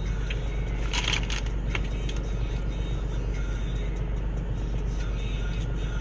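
Steady low hum of an idling car, heard from inside the cabin, with a short rustle about a second in.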